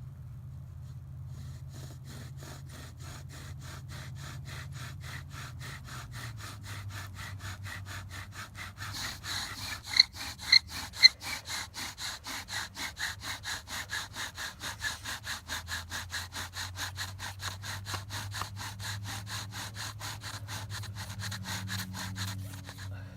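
Bow drill being worked for a friction fire: the wooden spindle grinding in the hearth board with steady back-and-forth strokes of the bow, about three a second. The strokes grow louder and harsher partway through, with three sharp squeaks about ten seconds in, as the drill is pushed to build a coal.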